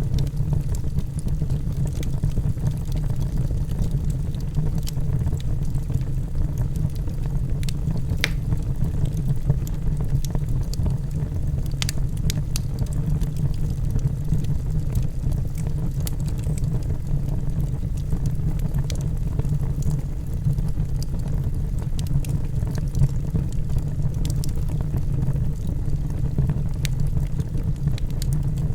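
Wood logs burning in a fireplace: a steady low rumble of the fire with scattered sharp crackles and pops from the burning wood.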